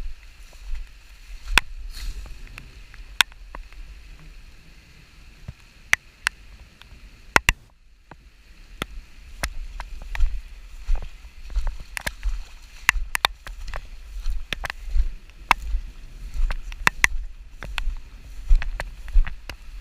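Wind buffeting the microphone in gusts, with many irregular sharp ticks and taps close to it.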